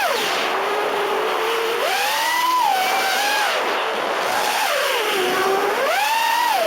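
FPV racing quadcopter's four brushless motors (Emax RS2205 2300kv) whining under changing throttle. The pitch drops sharply at the start, climbs again about two seconds in, falls near five seconds and rises once more near the end.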